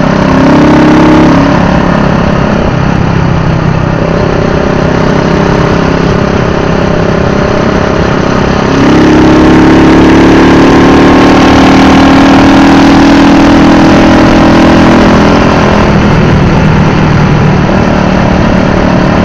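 Honda GB single-cylinder motorcycle engine running through an aftermarket Wellington muffler, idling with a brief blip of the throttle about a second in. About nine seconds in it is held at higher revs, a little louder, for some six seconds before dropping back to idle.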